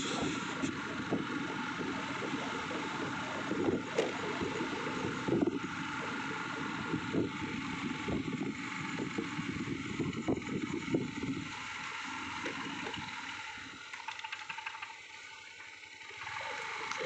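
Automatic scooter under way on a wet road: wind buffeting the microphone over the scooter's engine and tyre noise. The noise drops away for a few seconds near the end, then picks up again.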